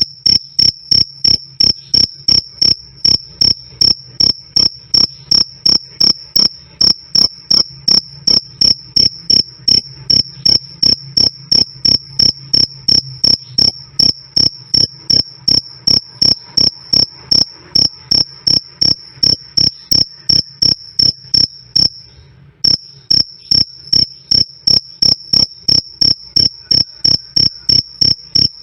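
Male cricket chirping loud and clear, a high, even 'krik krik' at about three chirps a second, with one short break about 22 seconds in.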